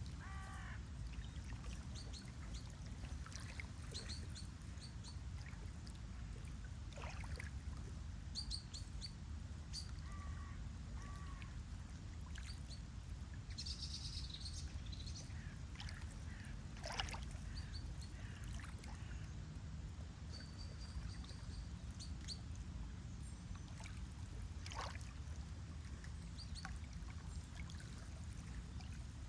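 Birds chirping in short, scattered high calls over a steady low wash of water.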